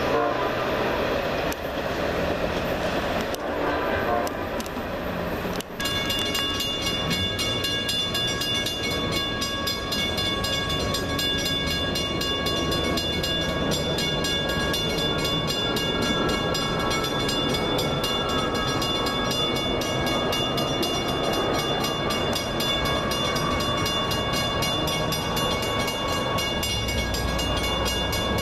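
A train rumbles past, and about six seconds in a railroad grade-crossing bell starts ringing with rapid, evenly spaced strikes and keeps going while more train noise carries on underneath.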